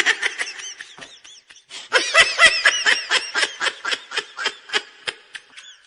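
High-pitched, cartoon-style laughter: a rapid string of 'ha-ha' pulses, about four or five a second. It tails off about a second in, then comes back louder and fades near the end.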